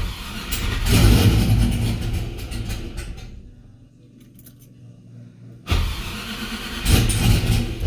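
Cammed 6.0 LS V8 firing up and running. It is loud for the first couple of seconds, settles quieter about three seconds in, then gets louder again about six seconds in.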